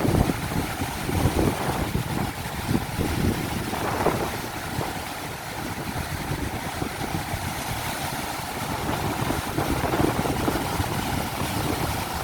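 Strong wind buffeting the microphone in irregular gusts over the steady wash of ocean surf breaking on a beach.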